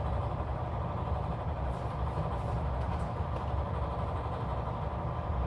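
Steady low rumbling hum of running machinery, unchanging throughout.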